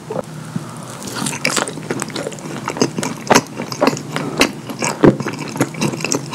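Close-miked wet chewing and lip smacking on a mouthful of chicken nugget coated in cheese sauce: a run of irregular sticky clicks and smacks.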